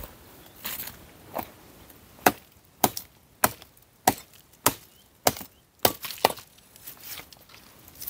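Hand-held blade chopping dry wood for firewood: a run of sharp chops, close to two a second, loudest through the middle, with softer knocks before and after.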